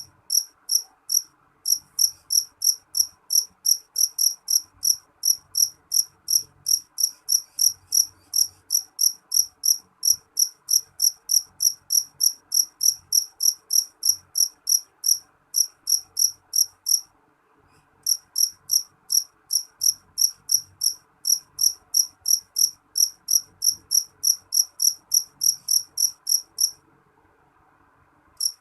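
A cricket chirping: a regular run of short, high chirps, about three a second, that breaks off twice, for about a second a little after the middle and for nearly two seconds near the end.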